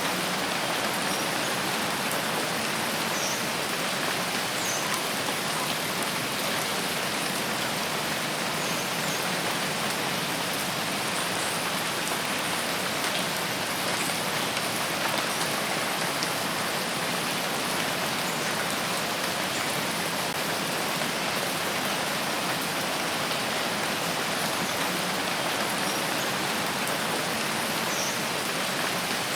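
Steady rain falling in a rain forest, an even hiss that doesn't let up.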